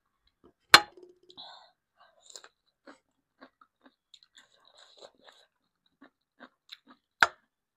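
Close-miked eating sounds: chewing and small wet mouth clicks from someone eating Korean black bean noodles. Two sharp clinks, one about a second in and one near the end, the first with a short ring.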